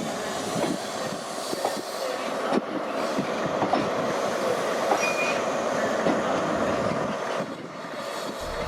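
A train running past on the track, its wheels clattering over rail joints, with a brief wheel squeal about five seconds in.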